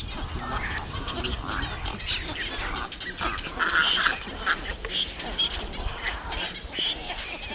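A nesting colony of egrets and herons with their chicks: many birds calling at once, short harsh overlapping calls and chatter, busiest about halfway through, over a low rumble.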